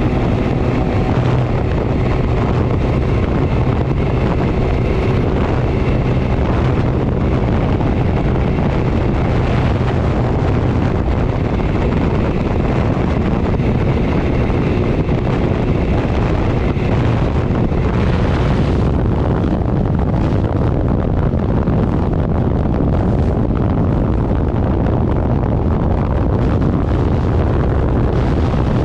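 Heavy, steady wind buffeting the microphone of a moving vehicle, with its engine running underneath. A higher whine in the noise fades about two-thirds of the way through.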